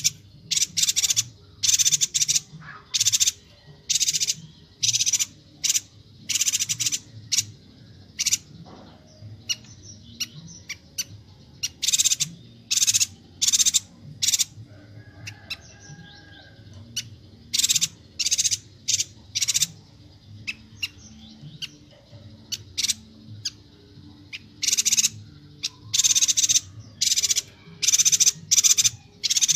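Chestnut-crested yuhina (yuhina Kalimantan) calling non-stop: short, harsh, high chattering notes repeated in quick clusters, thinning for a few seconds around the middle, over a faint low background murmur.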